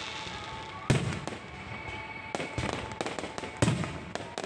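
Low-altitude fireworks going off: a sharp bang about a second in, and two more about two and a half and three and a half seconds in, with smaller crackling pops between them.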